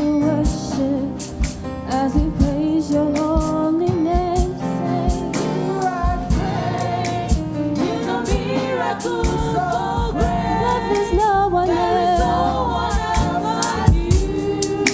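Gospel praise singing: a praise team's voices in a choir-like blend over a band, with drum hits keeping a steady beat under the wavering sung melody.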